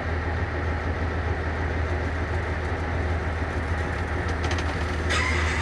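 Cummins ISM diesel engine of a 1999 International 9100i semi tractor running steadily with a deep low drone, heard from inside the cab. A louder hiss comes in about five seconds in.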